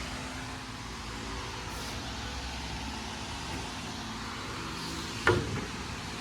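A steady mechanical hum, with one sharp knock about five seconds in.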